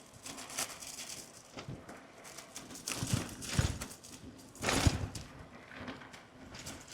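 Bicycle rattling and knocking as it rides over a rough, bumpy road, with irregular knocks and louder jolts about three and five seconds in.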